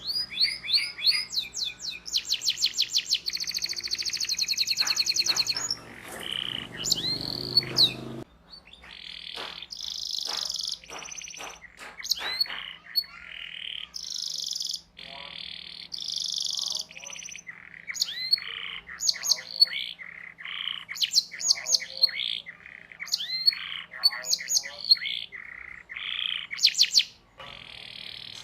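Domestic canary singing a long song of fast trills and rolls of rapidly repeated notes, mixed with chirps. A low background hum under the song cuts off suddenly about eight seconds in.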